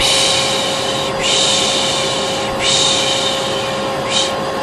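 A vacuum cleaner motor runs steadily with a constant hum. Over it a person makes repeated 'shh' shushing sounds: three long shushes of about a second each, then a short one near the end. This is the 'piş piş' hush used in Turkish to lull a baby.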